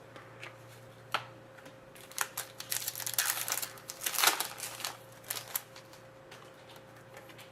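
Hands handling trading cards and their pack wrapping: a single click about a second in, then a run of quick crinkles, scrapes and clicks from about two to five and a half seconds.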